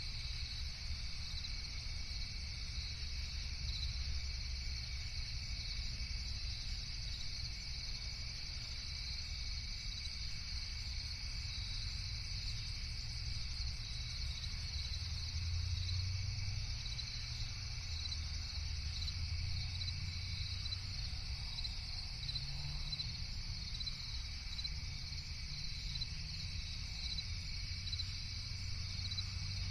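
Night chorus of crickets chirping steadily and continuously, over a low rumble.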